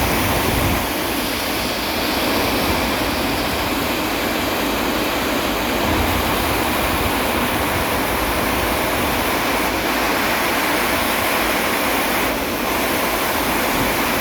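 Steady heavy rain, a dense, even hiss.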